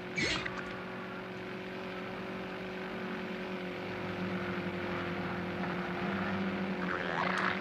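Volkswagen Beetle race car's engine running steadily at speed, with a brief swell of noise near the end.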